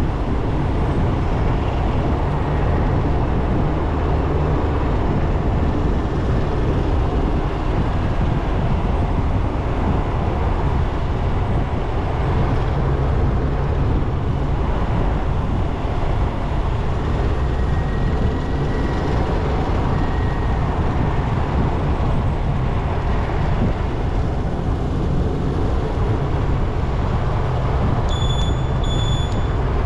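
Steady low rumble of a motorbike on the move: engine and road noise with wind on the microphone. A short high-pitched beep sounds near the end.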